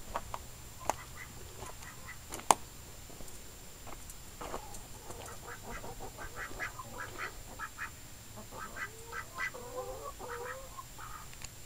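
Domestic ducks quacking in a quick series of short calls through the second half. A single sharp click about two and a half seconds in.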